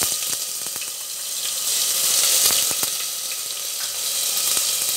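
Garlic paste sizzling in hot mustard oil in a pressure cooker: a loud, steady hiss with scattered sharp pops and crackles as the paste fries.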